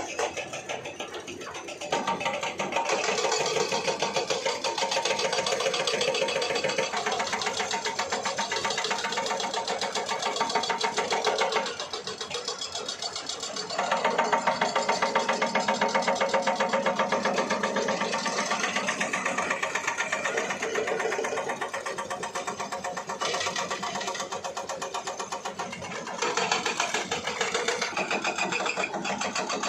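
An engine running with a fast, even clatter. It dips in loudness about twelve seconds in, rises again two seconds later, and changes level a few more times.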